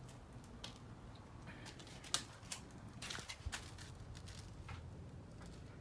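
A few light clicks and knocks of metal engine parts being handled, the sharpest about two seconds in and a quick cluster about a second later, over a faint low hum.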